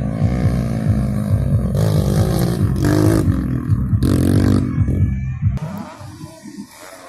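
Grasstrack motorcycle engines revving, the pitch rising and falling, then dropping away about five and a half seconds in.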